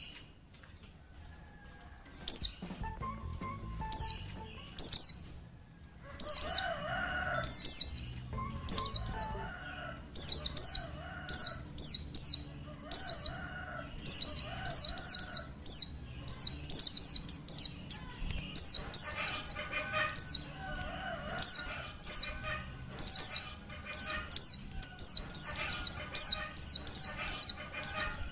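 Female white-eye (pleci) calling: very high, thin notes sliding downward, given in quick clusters of two to four and repeated about once a second, the call used to rouse male white-eyes into song. Fainter, lower warbling chirps sound underneath.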